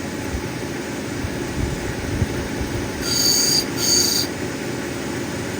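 Lapidary cabbing machine running with a steady hum while an opal is ground on its wheel. About three seconds in, two brief high-pitched squeals, one right after the other.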